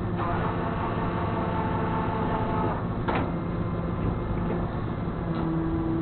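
Flatbed tow truck's engine running with a steady low hum, overlaid by a mechanical whine for the first few seconds, a sharp knock about three seconds in and a short whine near the end.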